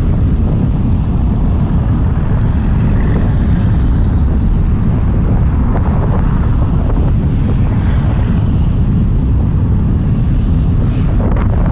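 Airbus A330-900neo's Rolls-Royce Trent 7000 turbofans running at takeoff power: a loud, steady jet roar with a heavy low rumble.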